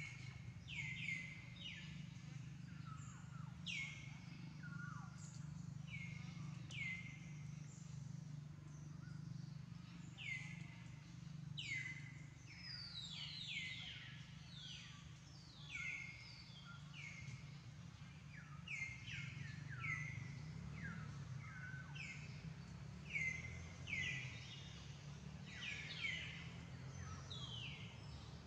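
Birds chirping again and again, each call short and quickly falling in pitch, over a low steady hum.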